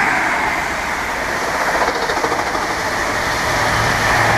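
Class 43 High Speed Train diesel power car and its coaches passing through the station without stopping: a steady, loud rush of train noise, with a low engine hum coming in near the end.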